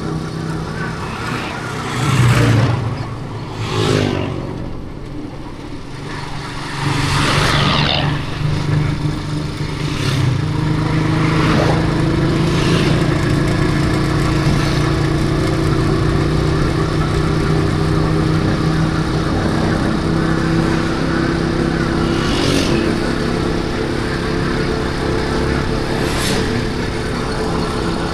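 Motorcycle engine running steadily while riding on the road, its pitch creeping slowly up through the middle, with several brief rushes of noise from passing traffic.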